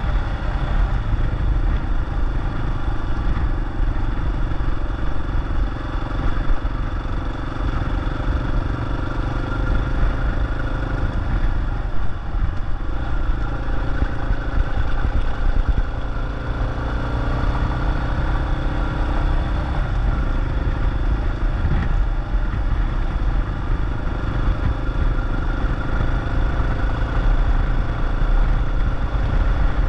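Yamaha XT250's single-cylinder four-stroke engine running as the motorcycle rides along, its note rising and falling about halfway through as the speed changes, with wind rumble on the microphone.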